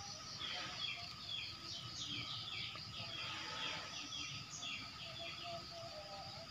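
Birds chirping: a steady run of short, falling chirps, about three a second, over a faint steady high drone.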